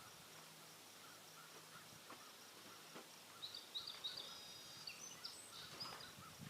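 Near silence: faint outdoor background, with a short run of high bird chirps about three and a half seconds in.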